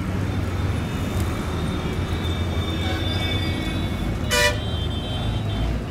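City traffic ambience: a steady low rumble of road traffic, with one short car horn toot about four seconds in.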